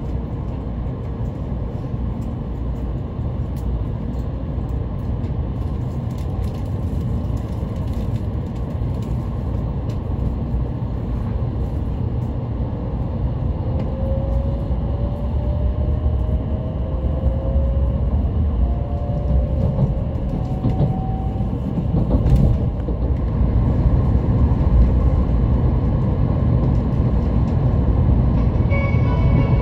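Kyushu Shinkansen train pulling away and gathering speed, heard from inside the passenger cabin: a steady low rumble that grows louder, with a rising whine from about halfway through.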